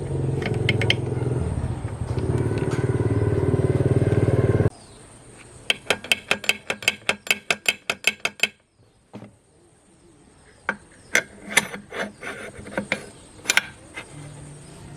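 A motor runs steadily, then cuts off abruptly a little under five seconds in. A quick run of sharp clicks or taps follows, about five a second, then scattered single clicks.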